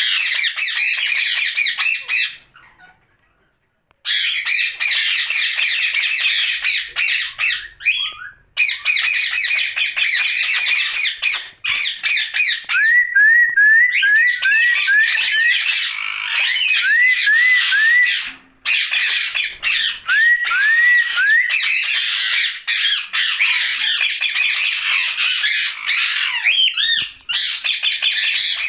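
Rose-ringed (Indian ringneck) parakeet chattering and squawking in rapid runs of calls, with a few short breaks. In the middle it gives a series of short, rising chirps.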